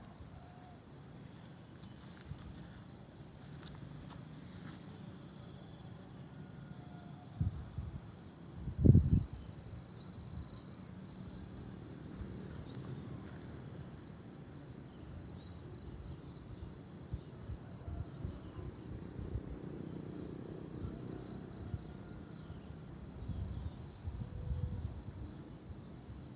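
Insects trilling in a steady high-pitched chorus, with pulsing phrases that come and go. Under it is a low rumble, with two low thumps about 7 and 9 seconds in.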